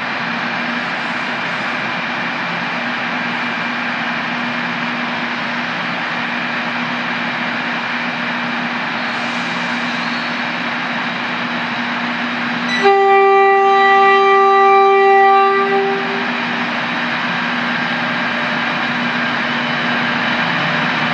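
Tren Maya passenger train running with a steady mechanical rumble and hum. About thirteen seconds in, its horn sounds one long blast of roughly three seconds.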